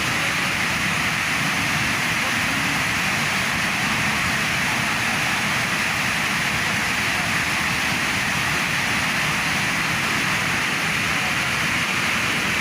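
Steady rush of a large waterfall, an even, unbroken noise of falling water.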